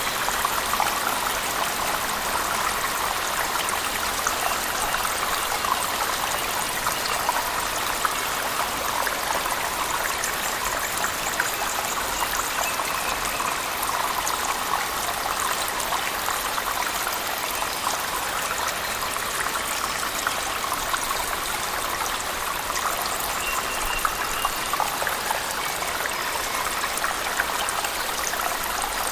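Cave waterfall and heavy rain: a steady, even rush of falling water with no change.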